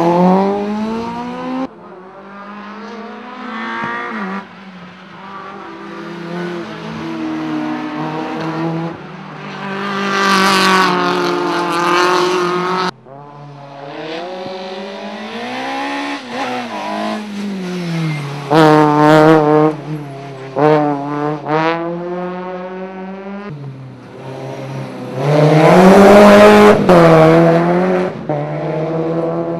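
Several rally cars on a tarmac circuit, one after another, engines revving hard and dropping sharply on gear changes and braking, with some tyre squeal. Two cars pass loudly, about ten seconds in and again near the end.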